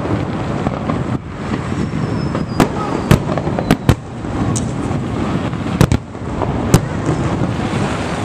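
Fireworks display: aerial shells bursting with sharp bangs at irregular intervals, several in a few seconds, over steady background noise. A faint whistle is heard about two seconds in.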